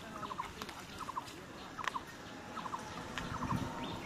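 A bird calling over and over in groups of three quick notes, a little more than one group a second, with a low rumble about three seconds in.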